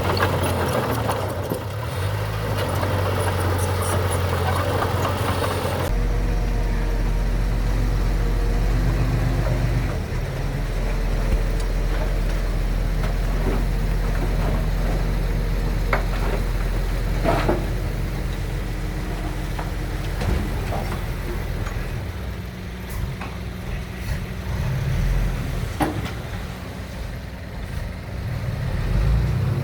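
Heavy diesel engines of earthmoving machinery running steadily, with the sound changing abruptly about six seconds in and a few sharp metallic clanks later on.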